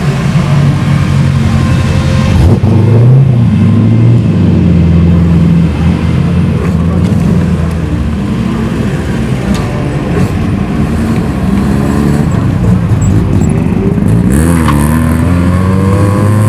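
Classic Japanese cars' engines running and revving as they pull away and drive past, the pitch rising and falling. A fresh rev rises near the end.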